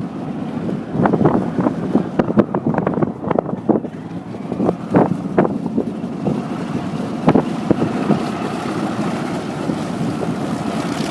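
Wind buffeting the microphone in irregular gusts. From about halfway through, a steady mechanical drone takes over and grows slightly louder.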